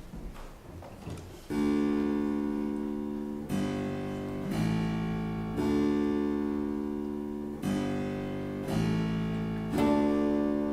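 A baroque continuo group of harpsichord and plucked strings plays a slow series of struck chords, each ringing and fading before the next. About a second and a half of quiet comes before the first chord.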